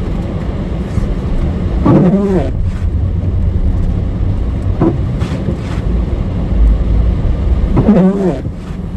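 GMC Yukon engine and road rumble heard from inside the cabin while driving through deep snow. Two short wavering voice-like sounds come about two seconds and eight seconds in.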